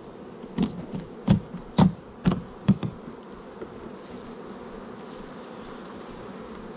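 Honeybees buzzing steadily around an open hive, with a handful of sharp knocks in the first three seconds.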